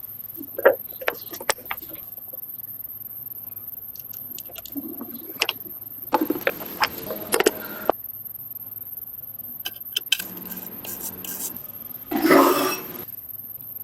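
Small metal tools and parts clinking and scraping during work on a motorcycle, in scattered separate clicks with a busier patch of clatter midway and one short, louder rasp near the end.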